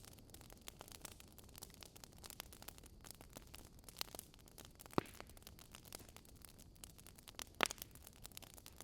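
Wood fire burning in a fireplace, crackling with a steady patter of small clicks. Two sharper pops come about five seconds in and near the end.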